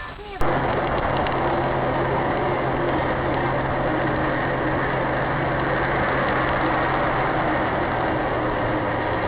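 Steady car running noise, engine and road, with a constant low hum. It cuts in abruptly about half a second in and holds even throughout.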